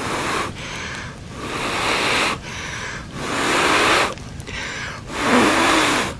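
A person blowing hard into a smouldering tinder bundle to coax a friction-fire ember into flame. Four long, hissing breaths come about two seconds apart.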